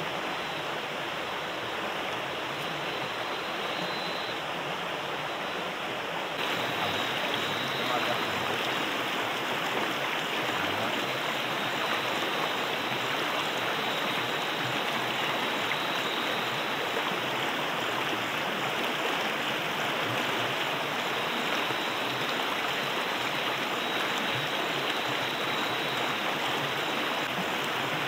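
A river rushing steadily, a continuous water noise that gets louder about six seconds in.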